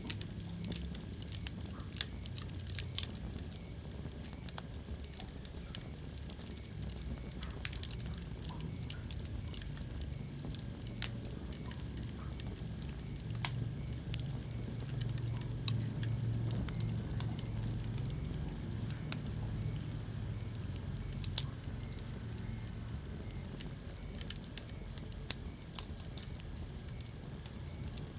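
Wood fire crackling in a fireplace: irregular sharp pops and snaps over a steady low rumble of the flames, with the loudest pop about 25 seconds in.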